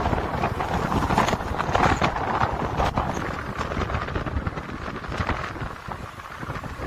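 Rumbling road noise with irregular knocks and rattles while riding an electric bike beside busy motorway traffic, louder for the first few seconds and then easing.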